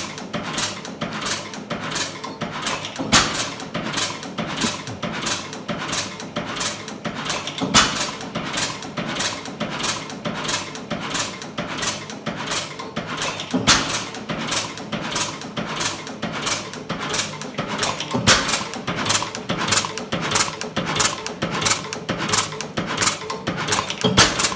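1912 Gardner 3F hot bulb stationary engine running, a steady rapid clatter of about four beats a second, with a louder knock every four to six seconds.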